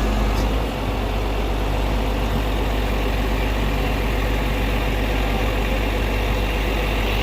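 Heavy vehicle's diesel engine idling steadily.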